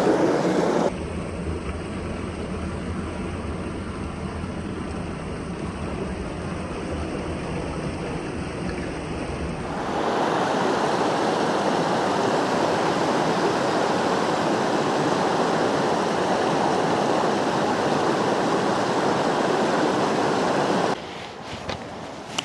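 Mountain creek water rushing, a steady wash of moving water. Its sound changes abruptly about a second in and again about ten seconds in: first duller with a low rumble, then brighter and louder, dropping back near the end.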